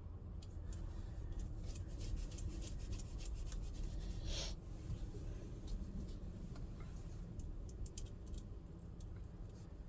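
Rubbing and scraping with many small clicks, and one longer scrape a little past four seconds in: a shifter boot being worked into place around the floor shifter.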